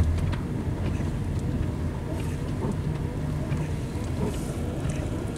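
Car engine running steadily, heard from inside the cabin as the car works to pull away in snow.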